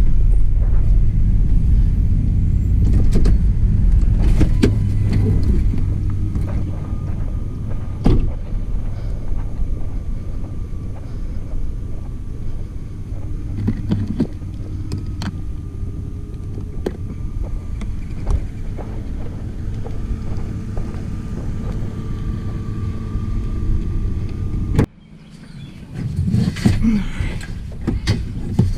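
Vehicle rumble with scattered knocks and clicks, which cuts off suddenly near the end and gives way to light clattering.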